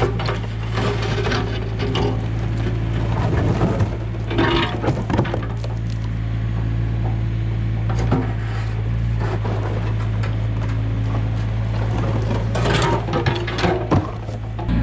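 Komatsu excavator's diesel engine running steadily while its bucket breaks up and drags slabs of old concrete, with repeated clanks, scrapes and cracks of concrete chunks. The knocks cluster about four seconds in and again near the end.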